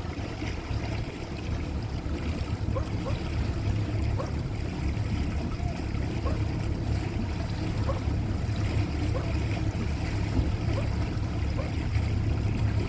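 Boat engine running with a steady low rumble, with water noise over it.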